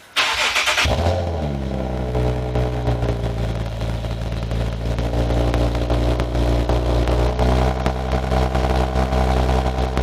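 Infiniti G sedan's VQ-series V6 with a custom exhaust starting up. A brief burst of starter and flare noise falls away within about a second and a half into a steady, deep idle.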